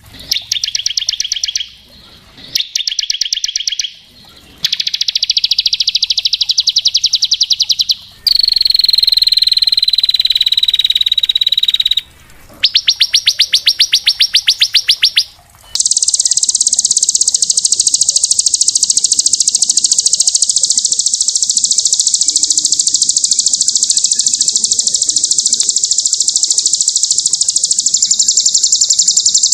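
Small songbird singing rapid high trills: several short bursts of fast, evenly spaced notes with brief gaps, a slightly falling whistled phrase about a third of the way in, then one long unbroken trill through the second half.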